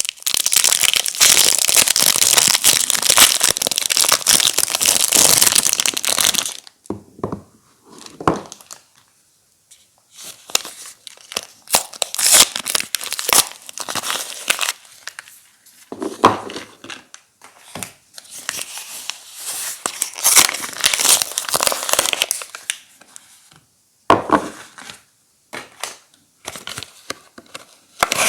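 Soap wrappers being torn open and crinkled by hand: a long stretch of steady crinkling, then short separate bouts of rustling and tearing with brief pauses between them.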